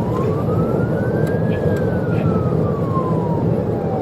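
Police car siren in a slow wail, its pitch rising for about a second and a half and then falling, over the steady road and engine noise of a patrol car at pursuit speed.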